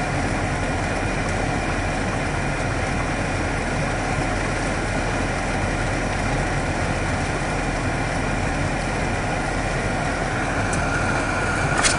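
Truck engine running steadily, heard from inside the cab, with a couple of light clicks near the end.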